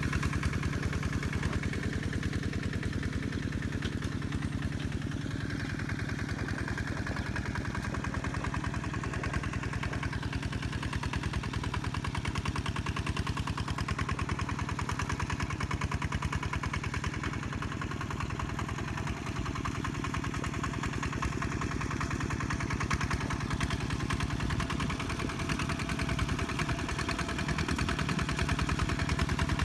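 Kubota tractor's diesel engine running steadily, a rapid even firing drone with little change in speed.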